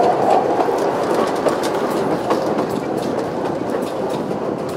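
Narrow-gauge passenger train running, heard from an open-sided carriage: a steady rumble of wheels on the track with irregular sharp clicks as the wheels cross rail joints.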